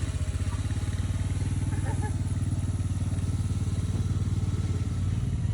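Small vehicle engine running steadily at an even, low speed, with a fast regular putter.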